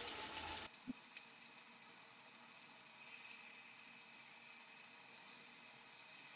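Paneer pieces coated in yogurt-gram-flour marinade, with capsicum and onion, sizzling in hot oil in a non-stick pan. Louder at first, the sizzle drops suddenly under a second in to a faint, steady hiss.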